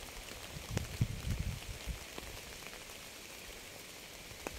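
Rain falling with a steady soft hiss, and scattered drops ticking sharply now and then. A few low, dull bumps come in the first second and a half.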